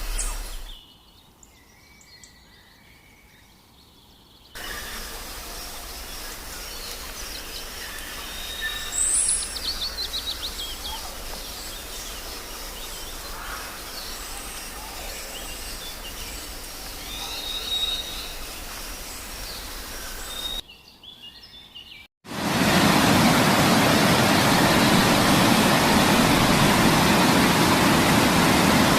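Outdoor ambience with scattered bird chirps and a short descending trill, then an abrupt cut to a loud, steady rushing noise for the last several seconds.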